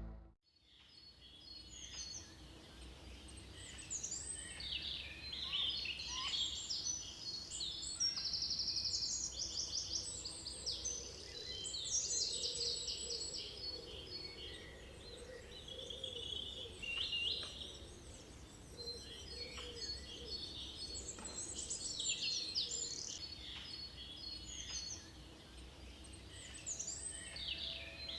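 Small wild birds calling together, with many overlapping high chirps, twitters and a few quick trills.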